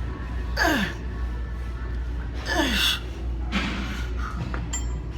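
A man grunting and gasping with effort through lifting reps: three strained, breathy grunts, each falling in pitch, a second or two apart.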